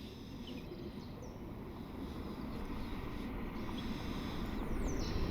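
Distant jet aircraft rumble slowly growing louder, with small birds chirping over it; a few quick descending chirps come near the end.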